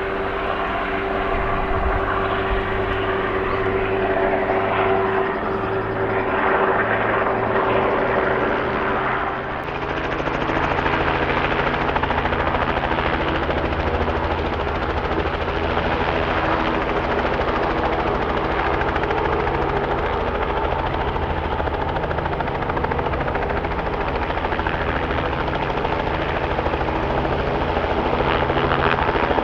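Helicopter turbine and rotors running steadily at close range, with a steady whine. A little over nine seconds in, the sound changes abruptly to a lower, throbbing mix.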